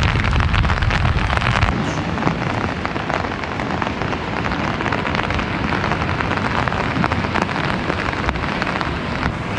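Rain falling, with a dense crackle of drops hitting close to the microphone. A deep rumble underneath drops away about two seconds in.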